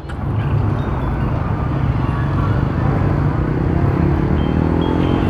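A Yamaha NMAX 155 scooter's single-cylinder engine running under way, with a steady low rumble of riding noise. It grows louder in the first second, and a faint rising pitch comes in near the end.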